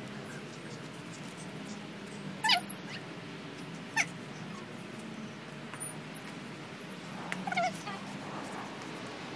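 Four short, sharp bird calls, falling in pitch, spread across a few seconds over steady low background noise of a garden.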